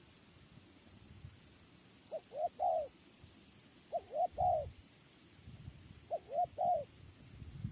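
Spotted dove cooing: three phrases of three low notes each, the last note of each phrase the longest, repeated about every two seconds.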